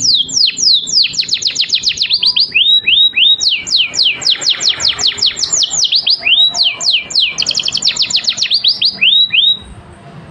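Domestic canary singing: fast trills of repeated downward-sweeping whistled notes, changing tempo from phrase to phrase and stopping near the end.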